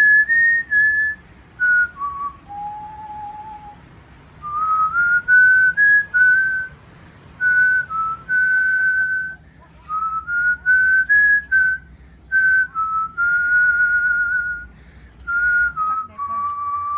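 A person whistling a tune: clear single notes, held and stepping up and down in pitch, with short gaps between phrases.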